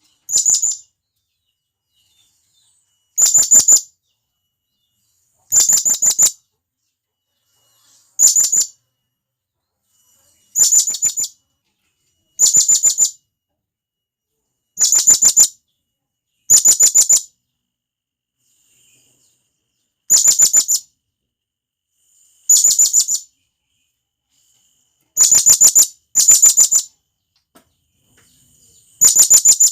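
Serindit hanging parrot giving a loud, shrill calling call: short rapid bursts of high notes, repeated about every two to three seconds, once or twice as a quick double.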